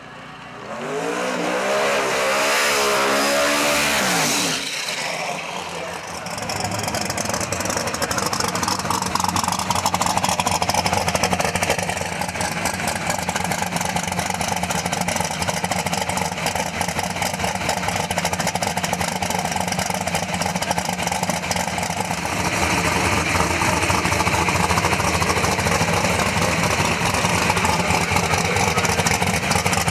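Twin-turbo 449 ci small-block Ford V8 of a drag car. Its pitch rises and falls in the first few seconds, then it settles into a steady run. From about twenty-two seconds in it turns brighter, with more hiss.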